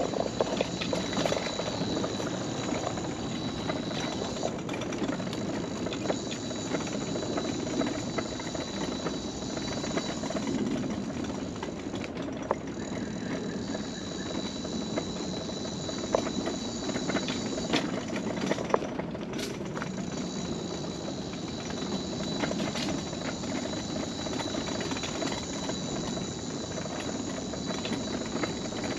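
Mobility scooter driving along a wooden boardwalk: a steady rolling rumble with irregular clacks and knocks as the wheels cross the planks.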